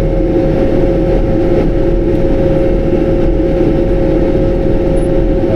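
Diesel tractor engine running at a steady speed, with a steady whine held over the engine rumble.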